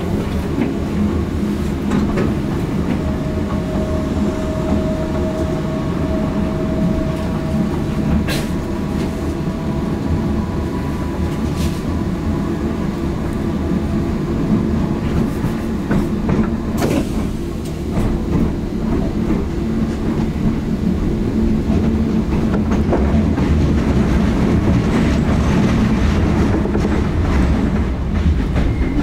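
Electric multiple-unit train with nose-suspended traction motors heard from inside a passenger car, running over pointwork. Its wheels clatter over rail joints and points above a steady rumble, and a thin whine rises briefly a few seconds in.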